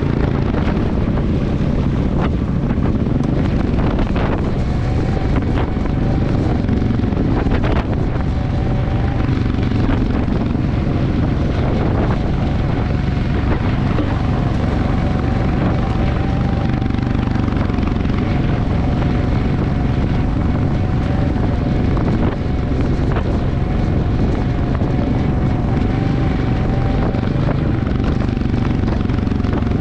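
Motorcycle engine running at a steady cruise with wind rushing over the microphone, a faint steady whine above it from about five seconds in.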